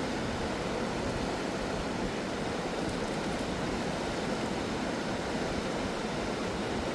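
Fast-flowing mountain river rushing, a steady, even roar of water.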